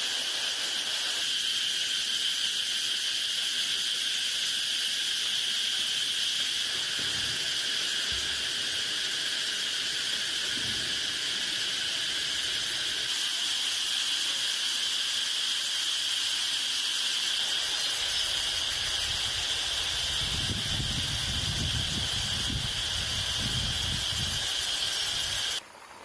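Steady chorus of insects chirring, an even high-pitched drone that cuts off suddenly near the end.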